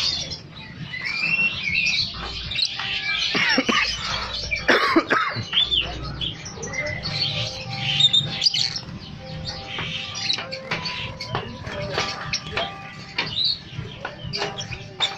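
Many caged songbirds singing and chirping over one another, a dense mix of quick whistled notes and glides.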